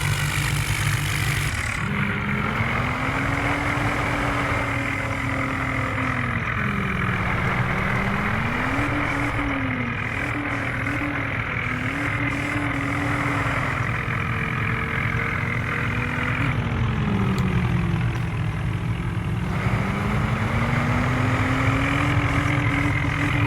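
Vehicle engines running: a steady low idle underneath, with a second engine's pitch rising and falling as it is throttled up and down.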